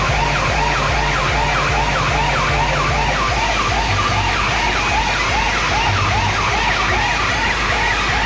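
Siren-style warbling tone, about three rising-and-falling sweeps a second, played loud over heavy bass through a large DJ sound system.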